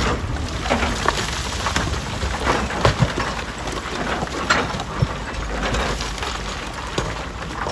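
Stone crusher working: rock fragments clatter and crack irregularly over a steady low machine rumble.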